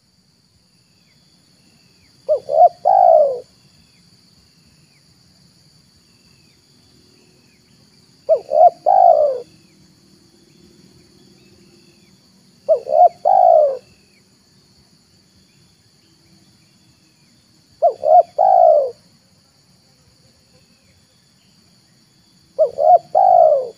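Spotted dove cooing: five phrases, each two or three short notes running into a longer note, repeated about every five seconds. A faint steady high-pitched insect trill runs behind.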